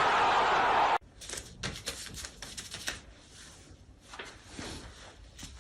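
Football stadium crowd noise that cuts off abruptly about a second in, followed by a run of light, irregular taps and clicks.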